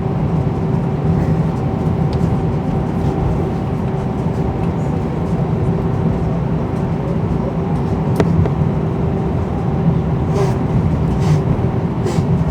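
Airbus A319 cabin noise: the jet engines running with a steady low rumble and a constant hum, level and unchanging, as the airliner readies for takeoff.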